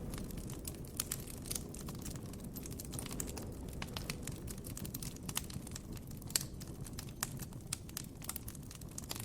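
Campfire crackling: irregular sharp snaps and pops of burning wood over a low, steady background rumble.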